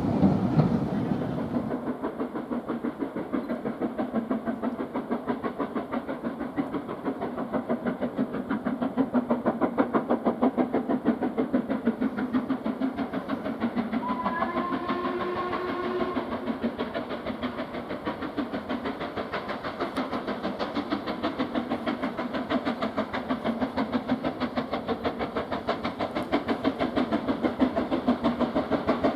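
Steam locomotive working, its exhaust beating in a quick, even rhythm. A short whistle sounds about halfway through.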